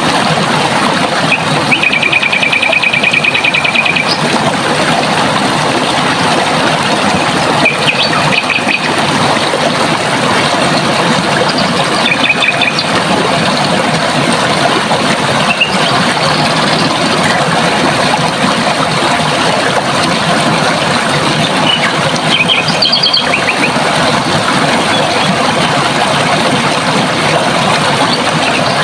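Running water rushing steadily, with small birds calling over it: a rapid trill of repeated notes about two seconds in, then short chirps now and again, and a brief run of higher notes later on.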